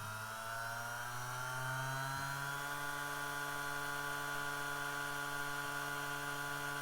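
Electronic compressor running on a test recording: a stack of motor tones rises in pitch over the first two seconds or so as it spins up, then holds a steady whine.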